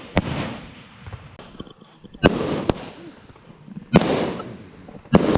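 Consumer fireworks cake firing: about five sharp bangs, irregularly spaced one to two seconds apart, each trailing off in a fading hiss.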